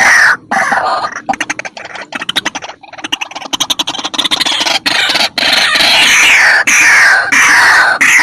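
White-breasted waterhen calls played from a lure recording: loud, harsh repeated calls. A fast rattling series comes about a second in, then a run of loud croaking calls, each falling in pitch, about two a second.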